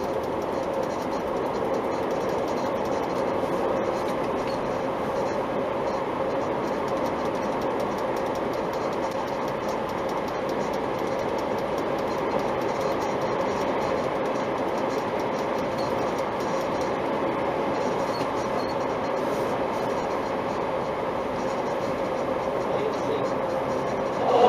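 Steady running noise of a Hyundai Sonata EF on the move, an even rumble with a faint held tone and fine rapid clicking; no distinct squeak stands out from it.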